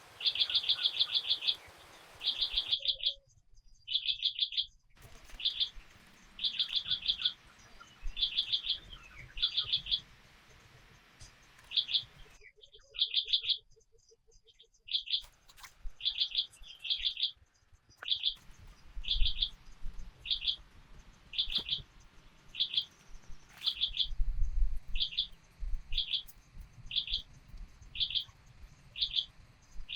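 A bird calling over and over: a short, high, trilled call repeated roughly once a second.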